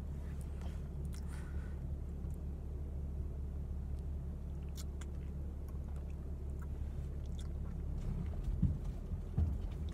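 Honda minivan's engine running at low revs, heard inside the cabin as a steady low hum while the van manoeuvres out of a parking space. A few faint clicks, and two low thumps near the end.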